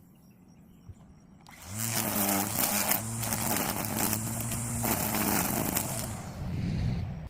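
An engine running steadily for about five seconds, starting about a second and a half in and dropping away near the end.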